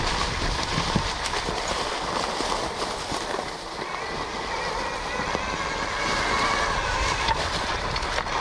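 Electric KTM Freeride E-XC dirt bike being ridden over rough trail: wind rushing over the microphone and knocks and rattles from the tyres and chassis on the bumpy ground. In the second half, a faint whine from the electric motor.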